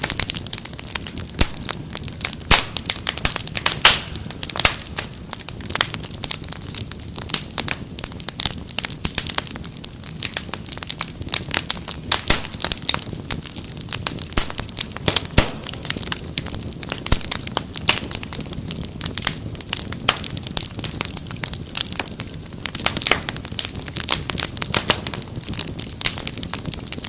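Fireplace fire crackling: dense, irregular sharp pops and snaps over a steady low rumble of the flames.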